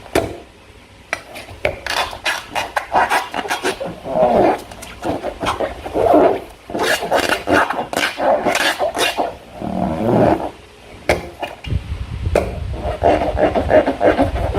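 Slime being worked by hand: a long run of wet, sticky crackles, squelches and clicks, coming in clusters with short quiet gaps between them.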